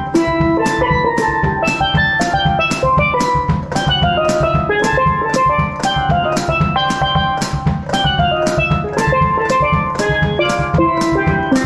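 Steel pan playing a quick melody of short ringing notes over a steady drum-kit beat.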